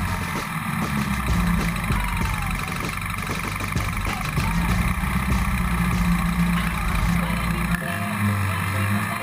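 Competition car's engine idling, heard from inside the car's stripped cabin; its low note changes near the end.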